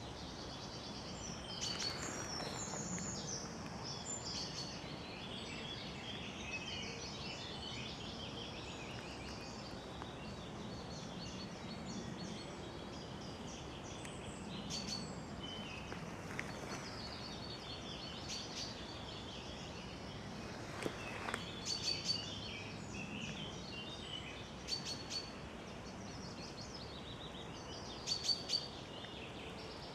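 Several songbirds singing and calling over a steady background hiss, with a few sharper, louder calls after about twenty seconds and near the end.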